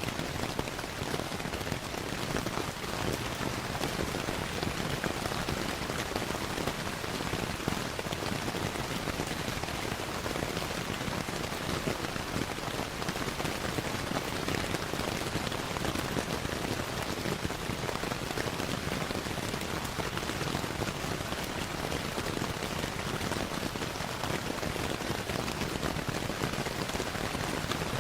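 Steady rain falling in a dense, even patter, mixed with the crackle of a wood fire in a fireplace.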